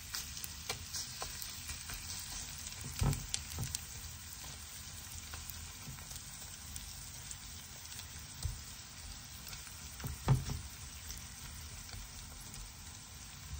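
Kimchi pancake batter sizzling and crackling in hot rapeseed oil in a frying pan. A few soft low knocks come through, about three seconds in and again around ten seconds in.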